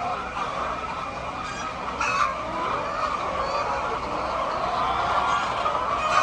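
A flock of chickens calling and clucking together in a continuous overlapping din, with a louder squawk about two seconds in and another near the end.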